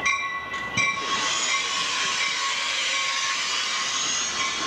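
A passenger train pulling into the station. A high, interrupted tone stops about a second in and gives way to a steady rushing hiss as the train comes in.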